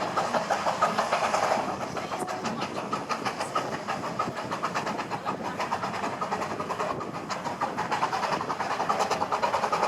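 Two narrow-gauge saddle-tank steam locomotives working hard up a steep gradient, their exhaust a rapid, steady run of chuffs.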